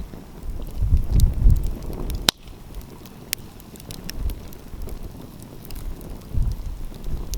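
Wood fire crackling with scattered sharp pops and one loud snap about two seconds in. A low rumble of wind on the microphone comes and goes in gusts.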